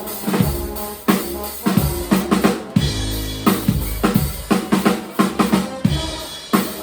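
Live band music led by a drum kit playing a busy groove, with kick and snare strikes several times a second over sustained low bass notes.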